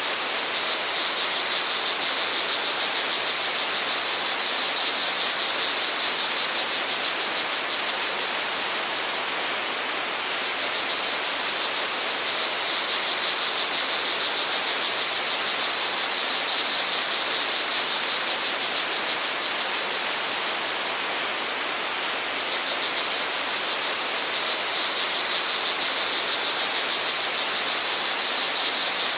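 Flowing stream or waterfall making a steady rush of water, with crickets trilling high and fast over it in long bouts broken by two short pauses.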